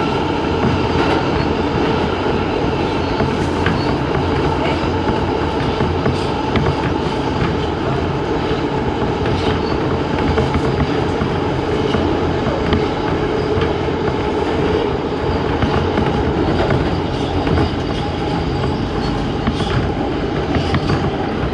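New York City Subway A express train running steadily at speed, with a continuous rumble, a steady whine, and scattered clicks of the wheels over rail joints.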